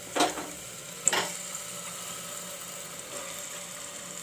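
Spice masala sizzling steadily as it fries in a small pressure cooker, with two brief knocks of the ladle and meat against the pot in the first second or so as raw mutton goes in.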